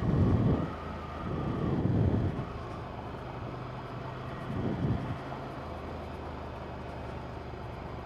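Ducati 797 motorcycle's air-cooled L-twin engine running steadily under the rider, with a few short swells of low rumble, near the start, around two seconds in and around five seconds in.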